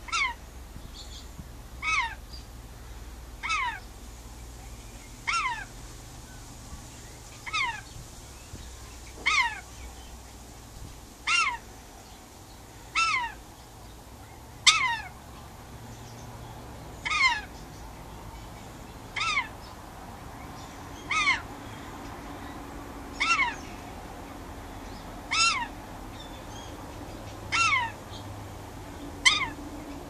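A bird calling over and over: short, clear notes that slide down in pitch, about one every two seconds.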